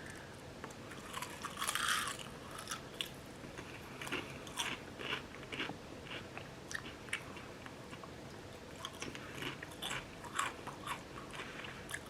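A person biting and chewing crisp potato chips, with many short, sharp crunches, the loudest about two seconds in.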